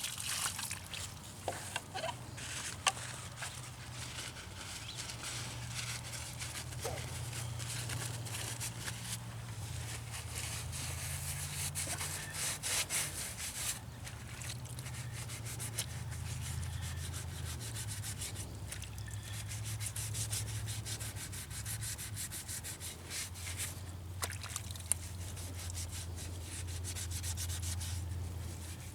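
Rapid, repeated rubbing strokes on a hard surface, coming in runs with short pauses, over a low hum that shifts in pitch.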